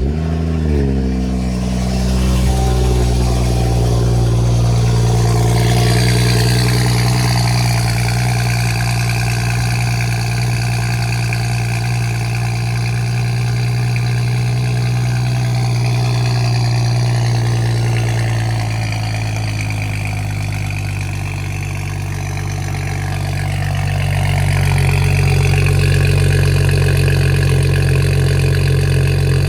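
BMW N55 3.0-litre turbocharged inline-six with a catless downpipe and resonator delete, cold-started: it cranks and catches, flaring up within the first second, then holds a steady raised cold-start idle. About twenty seconds in the note dips and shifts a little, then comes back stronger.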